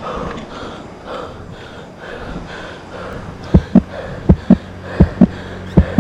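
A cyclist's heavy, rhythmic breathing while pedalling uphill. From about halfway, loud low thumps come in pairs, about one pair every three-quarters of a second, over a steady low hum that grows as a motor vehicle approaches.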